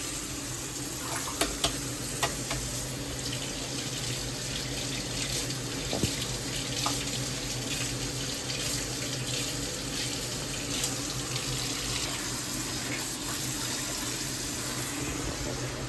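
Kitchen tap running steadily into a sink, with a few light clinks about a second and a half to two seconds in, shut off near the end.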